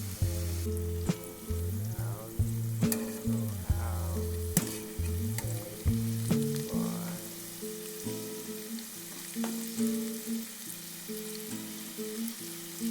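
Food sizzling as it fries in hot oil, with occasional sharp clicks, over background music with a steady bass line.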